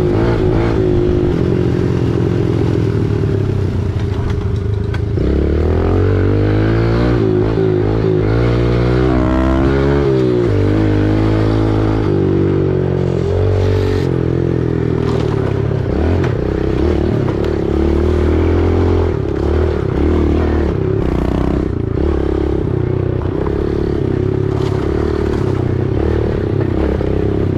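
Small single-cylinder four-stroke dirt bike engine running while riding, the revs climbing and dropping with the throttle several times, then holding steadier for the rest of the stretch.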